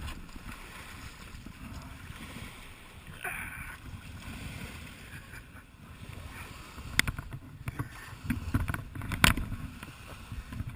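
Water sloshing and splashing around a kayak under a low rumble of wind on the microphone. About seven seconds in, a run of sharp splashes and knocks begins, the loudest about two seconds later.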